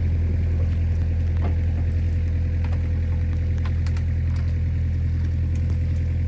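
Mini excavator's diesel engine running at a steady pitch, with a few faint clicks.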